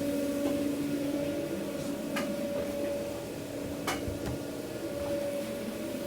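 Steady machine hum of food-truck kitchen equipment, two even tones with no change, broken by two sharp clicks or knocks about two and four seconds in.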